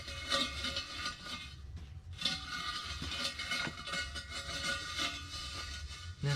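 Steel car wheel rim of a homemade vise stand rolling across the floor, a continuous metallic rattle with scattered clicks.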